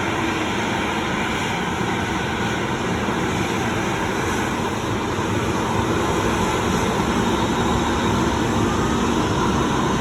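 Jet airliner engines running loud and steady, a dense rushing noise with a faint steady whine, growing slightly louder in the second half.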